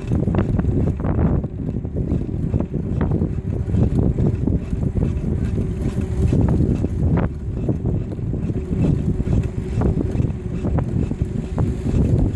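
Wind rushing over the microphone during a bicycle ride, a steady low rumble with scattered small clicks and rattles.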